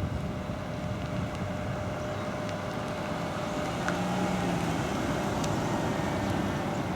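Steady motor-vehicle noise with a brief low hum about four seconds in.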